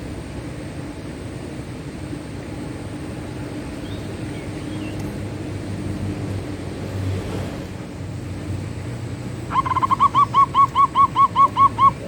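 Zebra dove cooing: a quick run of about a dozen short, even notes, about five a second, starting near the end, over a steady low background rumble.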